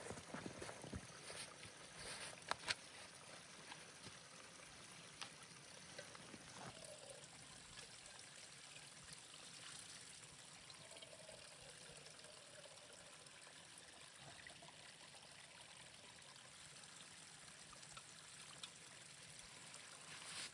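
Near silence: a faint steady hiss, with a few soft clicks in the first few seconds.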